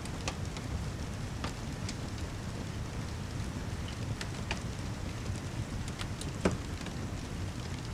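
Steady rain ambience with a low rumble, mixed with a fireplace crackling: scattered sharp pops, one louder pop about six and a half seconds in.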